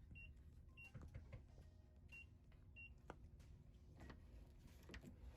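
Faint electronic beeps from a door keypad lock as a code is entered: four short, high beeps in two pairs, with a few light clicks.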